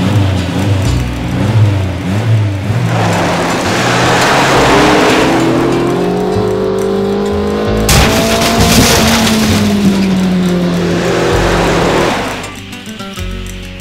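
Car engine accelerating hard, its pitch rising for several seconds, with a sudden harsh burst of noise about eight seconds in; the engine runs on and drops away about twelve seconds in. Music plays at the start and returns near the end.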